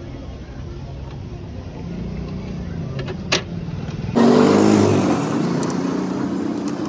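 A motor vehicle's engine running close by, a steady low hum, with one sharp click about three seconds in. Just after four seconds a cut brings a louder, rougher vehicle engine sound.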